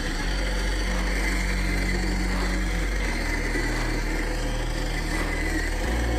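Small electric motor and gear drive of a 1/10-scale RC off-road car running steadily, with a thin whine.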